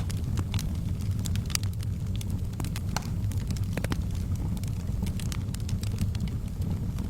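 Wood fire in a fireplace burning with a steady low rumble of flames and frequent irregular sharp crackles and pops.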